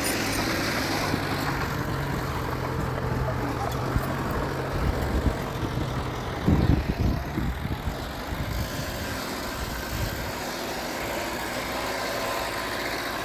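Diesel engine of heavy earthmoving machinery running steadily, with a louder spell of low rumbling and knocks about six and a half seconds in.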